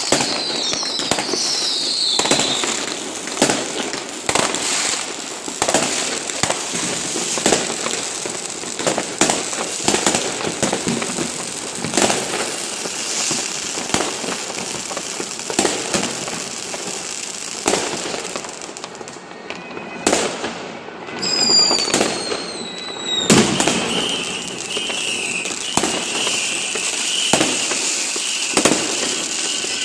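New Year's fireworks and firecrackers: a dense run of bangs over constant crackling. Falling whistles sound at the start and again about two-thirds of the way through, and a high wavering whistle runs through the last several seconds.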